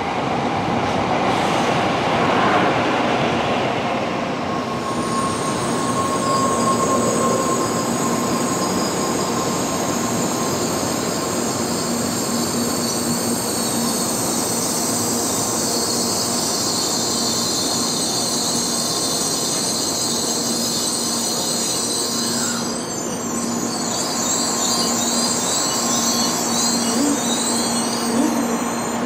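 Shinkansen train rolling slowly along a station platform as it comes in to stop, with steady running noise and a high-pitched squeal from the wheels and brakes that holds for much of the time and changes about three-quarters of the way through.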